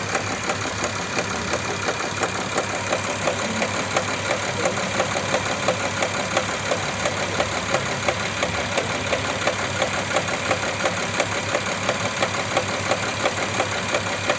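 Audi Q7 3.6 FSI VR6 engine idling warm with a steady, regular knock, several strikes a second, from the rear of the engine under the plastic cover. The knock only comes once the engine warms up, and the owner takes it for a rattling camshaft phaser.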